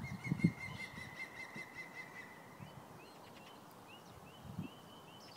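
A small bird singing: a wavering high note held for about two seconds, then a few short rising chirps. A couple of low knocks sound at the very start.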